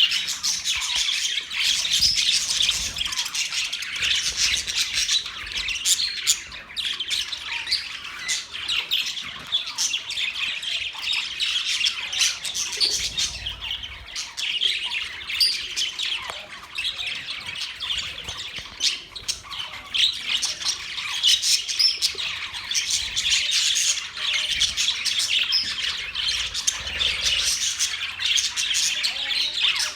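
Budgerigars chattering: many short chirps and squawks overlapping without pause.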